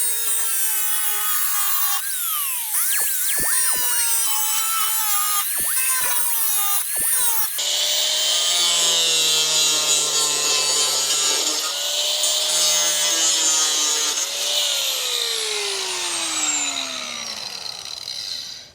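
Power tool cutting through a plastic 5-gallon bucket. Its pitch repeatedly rises and drops as it bites into the plastic, then falls slowly near the end before the sound cuts off abruptly.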